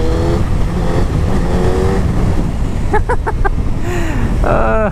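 Vehicle on the move, with a steady low rumble of engine and road or wind noise. A few short pitched blips come about three seconds in.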